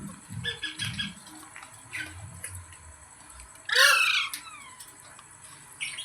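Green parrot calling: a few short chirps in the first second, then one loud, harsh squawk about four seconds in, lasting about half a second.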